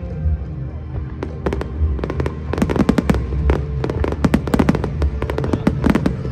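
Fireworks going off in a dense run of sharp bangs and crackles, thickest from about two seconds in, over background music.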